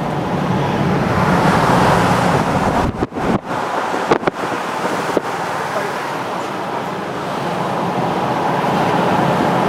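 Steady wind and road noise inside a moving car, the wind buffeting the microphone, with a couple of brief dropouts about three seconds in.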